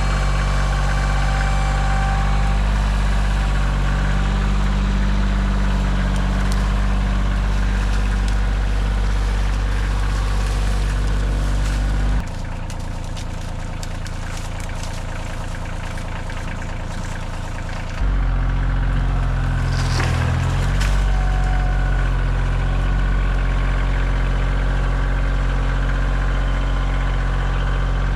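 Compact tractor engine running steadily while working the loader bucket. Around twelve seconds in the sound abruptly becomes quieter and thinner for about six seconds, then returns to full strength. A few sharp cracks or knocks come shortly after.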